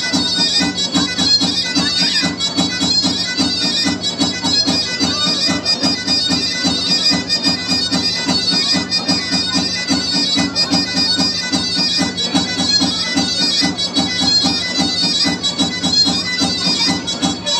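Lively traditional folk dance music: a reedy wind instrument plays over a steady, regular pulsing beat.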